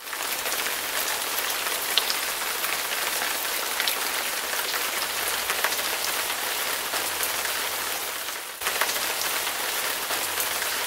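Steady rain falling: a dense hiss of drops with small individual drip sounds through it, briefly dipping about eight and a half seconds in.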